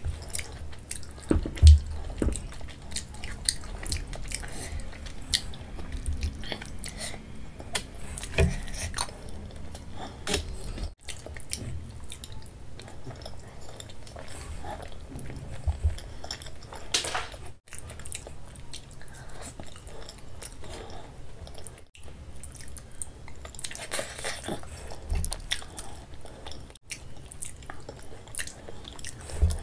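Close-miked chewing and wet mouth sounds of a person eating kadhi-soaked food by hand, with many short smacks and clicks.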